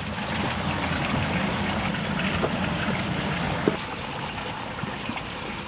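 Water running steadily through a gem-mining sluice, with a few small knocks of stones being handled in the screen.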